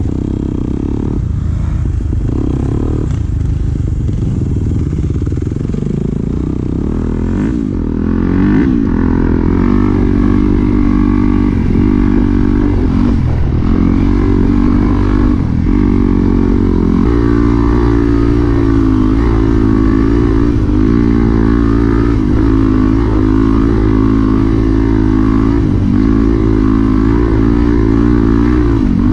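Dirt bike engine heard from the rider's helmet camera while riding, the revs rising and falling again and again with throttle and gear changes. Lower and steadier for the first several seconds, then louder and busier from about eight seconds in.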